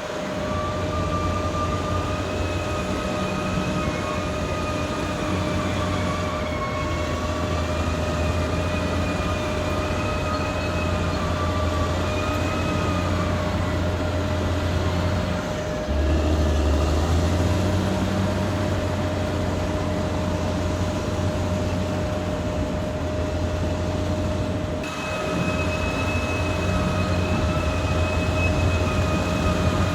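Caterpillar D6R XL bulldozer working, its diesel engine droning steadily with a constant high whine over it and a higher whine that wavers in pitch. The sound jumps abruptly about halfway through and again near the end.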